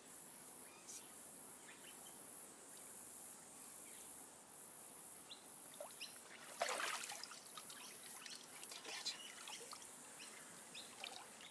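Insects calling in a high-pitched pulsing chorus, about one pulse a second, the pulses turning quicker and more irregular near the end. A short rushing noise stands out about seven seconds in.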